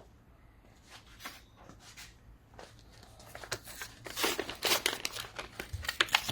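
Packaging being handled, likely the new gasket glue being unwrapped: a few separate clicks, then from about four seconds in a dense run of crinkling and tearing.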